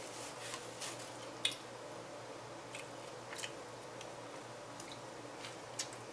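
A person chewing a Subway sandwich: scattered short, wet mouth clicks and smacks, the loudest about a second and a half in, over a steady low hum.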